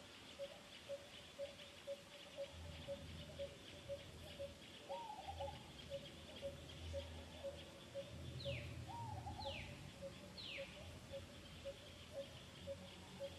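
Bird calls: an even series of low single notes about two a second, a couple of short rising calls, and three quick falling whistles a second apart about two thirds of the way through, over a faint steady high hiss.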